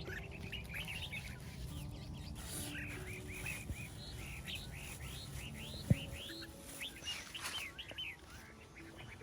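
Small birds chirping in quick, repeated notes over soft background music with held notes and a low rumble. A single sharp click about six seconds in.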